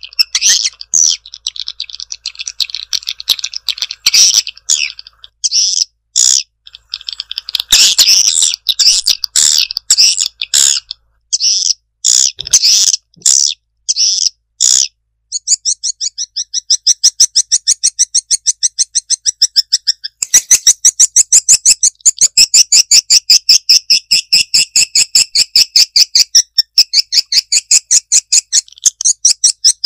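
Swiftlet lure call: a recording of walet (edible-nest swiftlet) twittering, played to draw swiftlets to a nesting house. Loud, high chirps come in an irregular chatter at first, then about halfway through turn into a fast, even run of repeated chirps.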